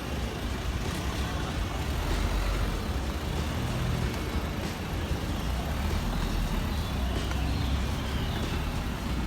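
Road vehicle noise: a steady low engine and tyre rumble of city traffic.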